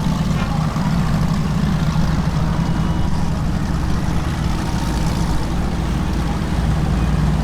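Boat engines running with a steady low drone among a crowd of boats on the water.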